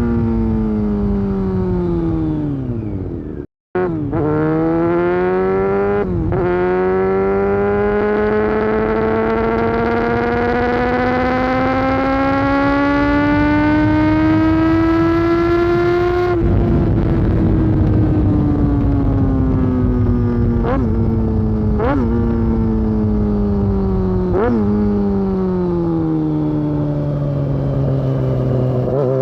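Honda CBR600F4 inline-four sport bike running through a loud aftermarket Delkevic exhaust. The revs climb steadily for about ten seconds, then fall away as it slows, with several short rev blips on the way down.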